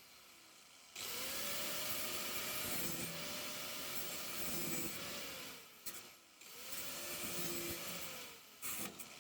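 Handheld power tool grinding sheet metal in repeated passes: two long runs and a short one near the end, the motor pitch dipping under load and recovering in each.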